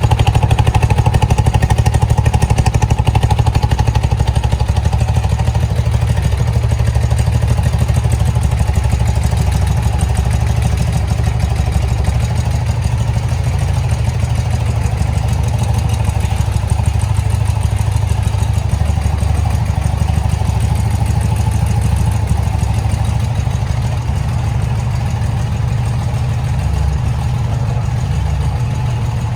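1978 BMW R80/7's air-cooled flat-twin engine idling steadily.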